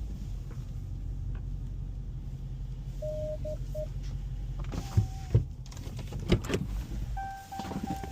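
Inside a car: a steady low hum from the running car, three short electronic beeps about three seconds in, a few sharp clunks between five and six and a half seconds, then a steady electronic tone from about seven seconds on.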